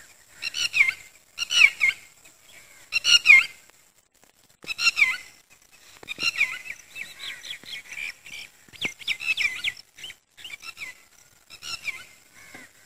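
Birds calling: loud, clear calls in short bursts, with a run of rapid repeated notes in the middle.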